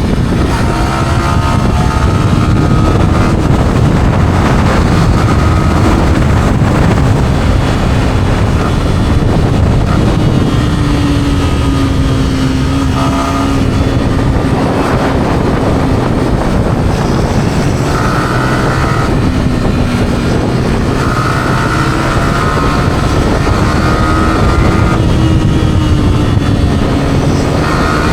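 Yamaha R15's single-cylinder four-stroke engine running through its stock exhaust on the move, its note drifting up and down with the throttle, over a steady wind rush on the microphone.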